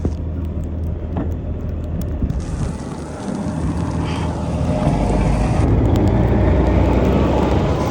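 City bus diesel engine running at a low steady hum, then growing louder about three seconds in as it accelerates.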